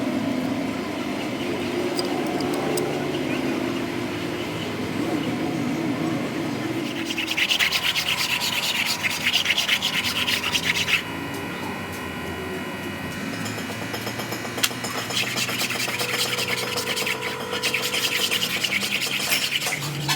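Rapid rubbing or scraping strokes on an engine part worked by hand, in two spells: one from about a third of the way in, and a second after a quieter stretch, running on near the end.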